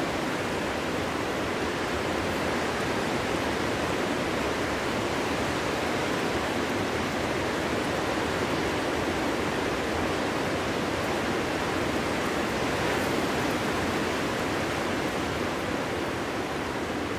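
Steady wind: an even rushing noise with no distinct gusts or howling tones.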